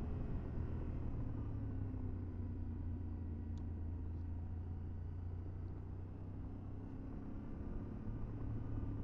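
Motorcycle engine running steadily under way, heard through a helmet camera as a low drone; it eases off slightly about six seconds in and picks up again near the end.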